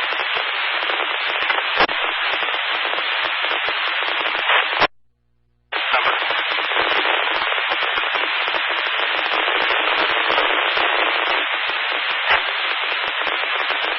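Two-way radio static hiss on a scanner feed, with a few sharp crackling pops. It cuts out completely for under a second about five seconds in, then the hiss resumes.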